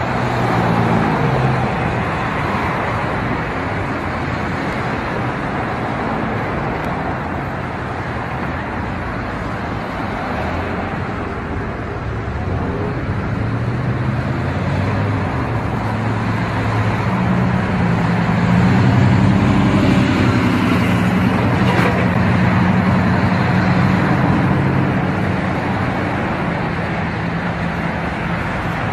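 Steady motor-vehicle noise: a low engine hum over traffic sound, growing somewhat louder in the second half.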